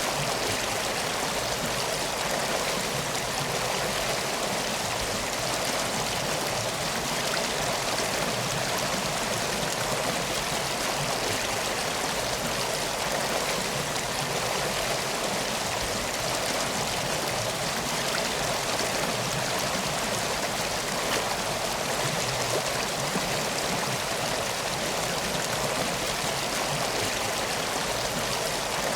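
Flowing water, as of a river or stream, running in a steady, unbroken rush.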